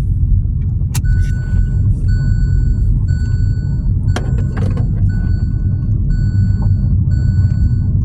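A loud, steady low vehicle rumble with an electronic beep repeating about once a second, starting about a second in, and a couple of sharp clicks.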